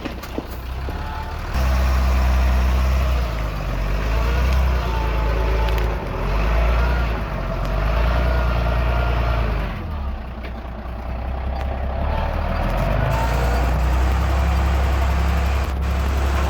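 Heavy diesel earthmoving machinery running and working under load. The engine gets louder about a second and a half in, then swells and eases in turn, with a wavering whine above it.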